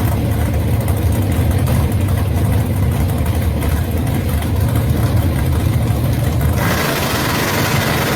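Gasser drag car engine idling with a deep, uneven rumble. About two-thirds of the way through, a steady hiss comes in over it.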